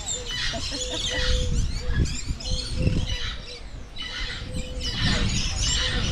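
Many birds chirping and calling at once, a dense mix of short high chirps and trills, with a few short lower whistled notes repeating through it.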